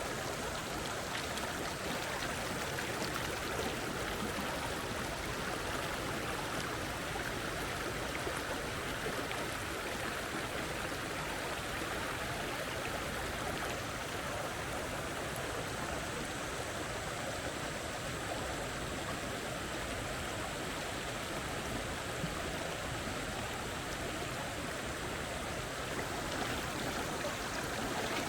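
Mountain river water rushing steadily, an even, unbroken flow noise.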